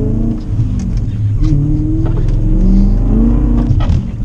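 BMW E39 M5's S62 V8, made very loud by an X-pipe and muffler delete, heard from inside the cabin as the car accelerates hard. The engine note climbs with revs, drops back and climbs again, with a brief break near the end, as at gear changes.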